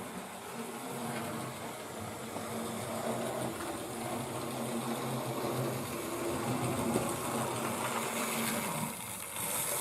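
Model railway locomotive's small electric motor running steadily with a buzzing hum as it pulls a Hornby track-cleaning wagon, its cleaning pads riding on the rails.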